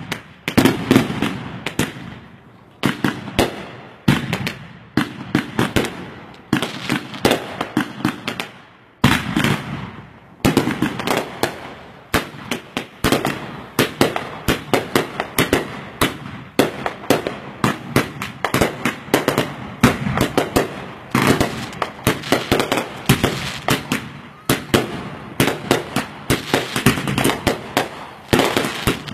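Aerial fireworks bursting close by: a rapid run of bangs and crackles in flurries, with short lulls early on and about a third of the way through, then packed tighter through the rest.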